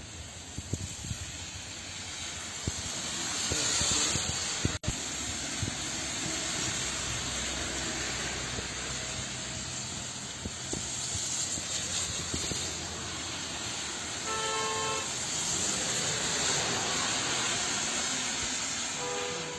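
Traffic on a rain-soaked street: tyres hiss on the wet road, swelling and fading as vehicles pass. A short car horn honk sounds about three-quarters of the way through, and another near the end.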